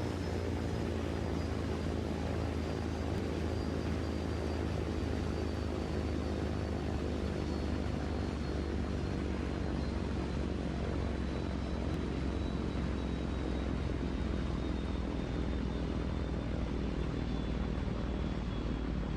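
Steady mechanical drone of an engine, with a faint high whine that drifts slowly lower in pitch. It starts and stops abruptly.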